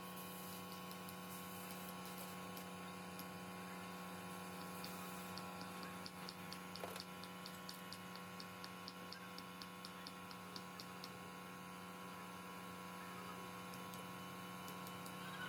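Steady hum made of many fixed tones, strongest at a low pitch, with a run of light, evenly spaced ticks, about three a second, through the middle.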